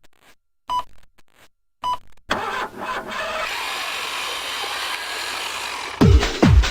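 Two short beeps about a second apart, then a steady rushing vehicle noise with no clear engine note. A techno beat with heavy kick drums comes in near the end.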